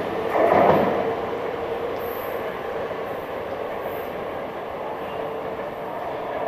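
Tokyo Metro 5000 series electric train running on the rails. A steady whine sits over the rolling noise, which swells loudly about half a second in and then slowly fades.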